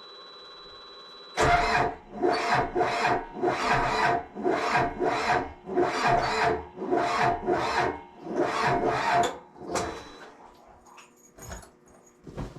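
Yanmar Vio80 excavator's diesel engine cranking on the starter motor in an even rhythm of about two strokes a second. It starts about a second and a half in and stops near ten seconds without catching. The slow cranking fits the weak battery that the owner blames.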